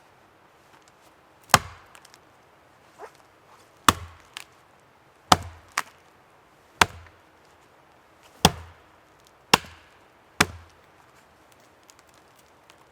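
Wood being chopped: about seven sharp chopping strikes, roughly one every one to two seconds, each with a dull thud, with a few lighter knocks in between.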